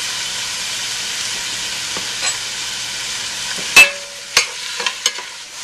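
Chunks of chicken breast sizzling in olive oil in a stainless steel pot, a steady hiss. A little under four seconds in, a metal spoon knocks loudly against the pot, ringing briefly, then clinks a few more times as the chicken is stirred.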